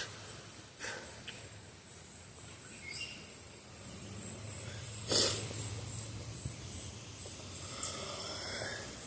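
Quiet outdoor ambience with a faint steady high-pitched whine and a few short rustles or knocks, the loudest about five seconds in.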